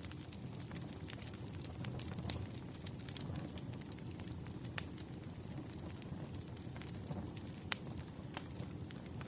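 Firewood burning: a steady low rumble of flames with scattered sharp crackles and pops, two of them louder, about halfway and again later on.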